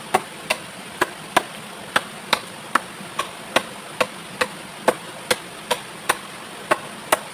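Steady run of chopping blows, a blade striking wood or bamboo about twice a second, each a short sharp crack.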